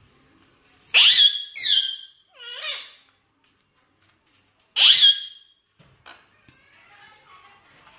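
Parrot screeching: a quick run of three loud, harsh calls about a second in, the last one lower, then a single loud screech near the middle.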